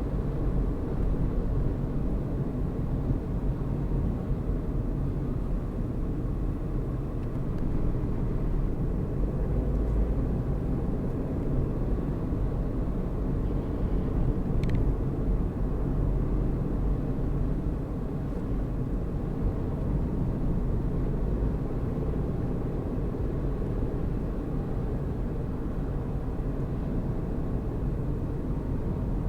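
A car driving along steadily, with a continuous low rumble of engine and tyre noise. A single brief sharp click comes about halfway through.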